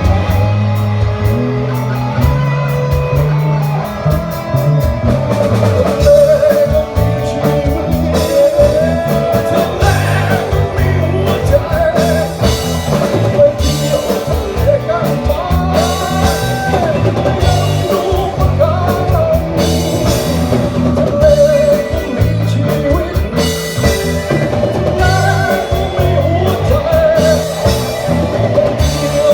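Rock band music: a lead voice or guitar line wavering over electric guitar, bass and a steady drum-kit beat.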